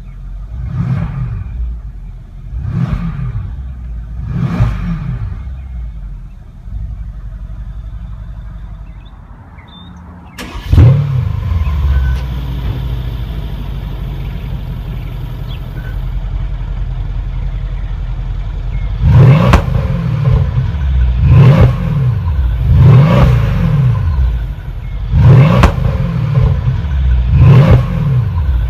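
The 5.5-litre twin-turbo V8 of a 2015 Mercedes-Benz S63 AMG being revved three times, then running quieter. About ten seconds in a sudden loud burst gives way to a steady idle. From about nineteen seconds it is blipped in a quick series of about six revs.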